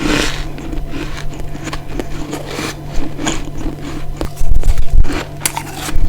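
Close-miked biting into frozen ice or freezer frost: a run of irregular crisp crunches and scraping crackles, with heavier, louder crunches about four and a half seconds in.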